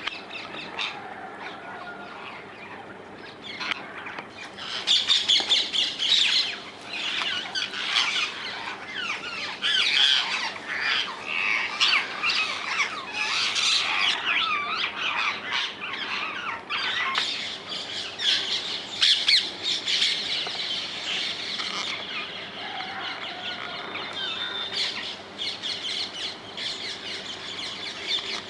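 A flock of rose-ringed parakeets (Indian ringneck parakeets) calling: many harsh, screeching squawks overlapping, quieter at first and loud and busy from about four seconds in.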